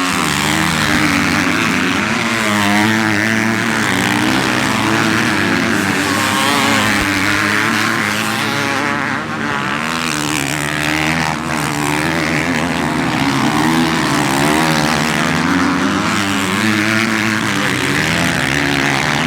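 Several motocross bike engines racing, overlapping one another and rising and falling in pitch as the riders work the throttle.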